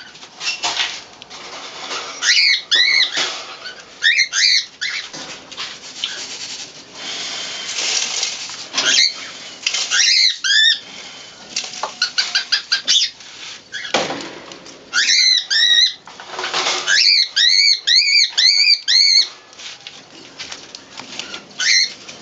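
Pigeons crowding at feed: wings flapping and rustling, with runs of high-pitched squeaky calls, several in quick succession, repeating every few seconds.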